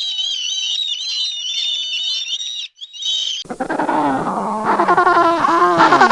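High-pitched, warbling animal calls that go on without a break for about three seconds. After a cut they give way to louder, lower bleating calls that bend in pitch.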